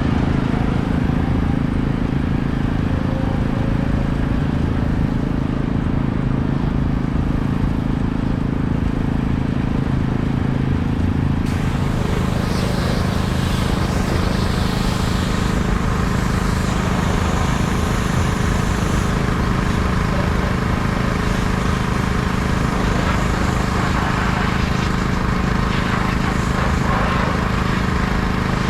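Small engine of a pressure washer running steadily at a constant drone. About eleven seconds in, a higher hiss joins it, such as spray from the wand.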